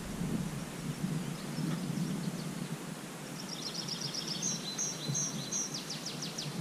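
Outdoor ambience with a steady low background noise; about halfway through a songbird starts singing a run of high, repeated chirps and quick trills.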